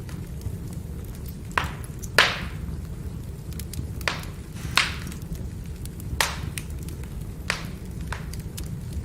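Burning firewood crackling: about seven sharp pops and cracks at irregular intervals, the loudest about two seconds in, over a steady low rumble of the fire.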